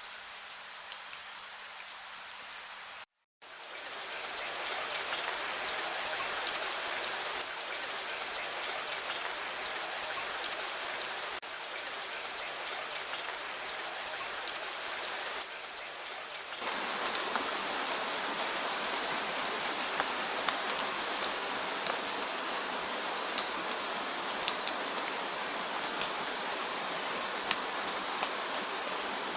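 Steady rain falling on a surface, with many individual drops ticking over the hiss. About three seconds in the sound cuts out for a split second, and about halfway through it changes to a fuller, slightly louder rain.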